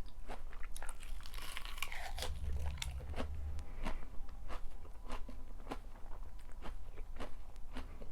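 A person chewing crunchy food close to the microphone: crisp, irregular crunches, about one or two a second.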